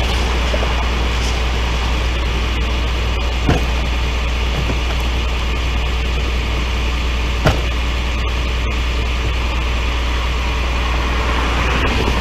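Vehicle engine running steadily: a low drone under an even hiss, with two brief knocks, one about three and a half seconds in and one about seven and a half seconds in.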